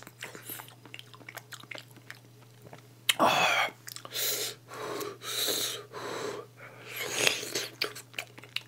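Close-miked wet biting and chewing of soft, ripe mango flesh pulled off the skin, in several short bursts from about three seconds in.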